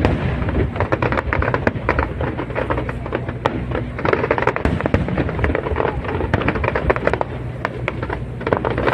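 Aerial fireworks display going off continuously: dense, rapid crackling and popping over a steady low rumble of shell bursts.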